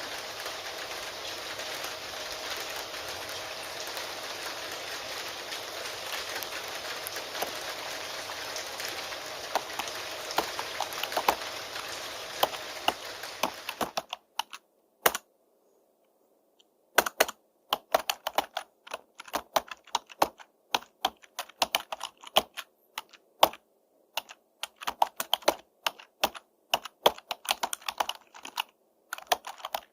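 Steady rain hiss with computer keyboard keystrokes clicking through it; about halfway through the rain cuts off suddenly, leaving keyboard typing alone in irregular runs of clicks with short pauses.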